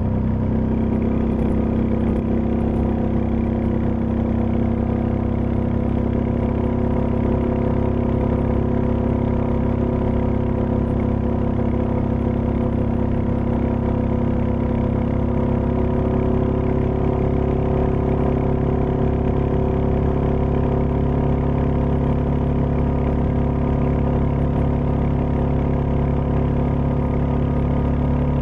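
Royal Enfield Meteor 350's single-cylinder engine running steadily, its pitch holding nearly constant with a slight shift about halfway through.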